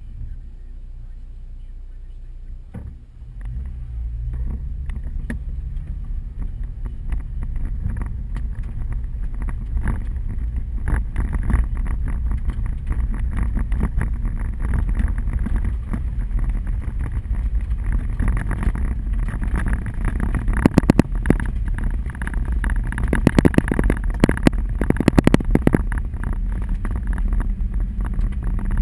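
Inside a vehicle driving through a hailstorm: a steady low road and engine rumble that grows louder about three seconds in, overlaid from about ten seconds in by dense sharp ticking of hail and rain on the body, with a few louder cracks near the end.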